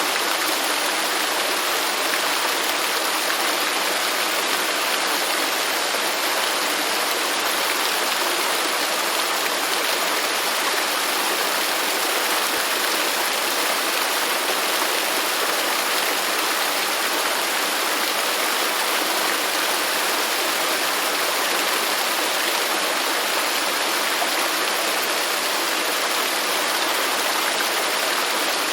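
A waterfall's water falling and splashing: a steady, even rush with no changes.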